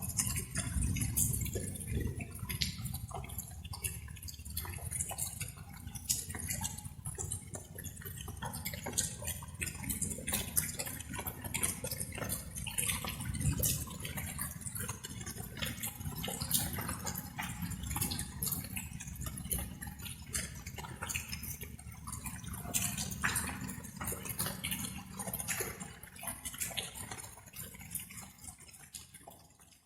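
Light rain dripping: many irregular drops landing, each a sharp tick, over a steady low rumble.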